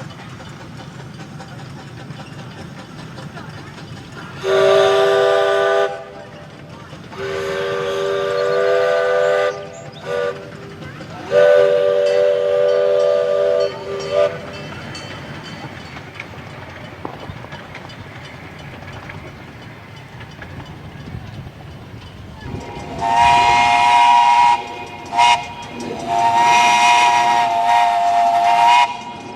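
Grand scale live-steam locomotive whistle blowing long, long, short, long, the grade-crossing signal. Later a higher-pitched steam whistle sounds long, short, long. Between the blasts the train runs with a steady hiss.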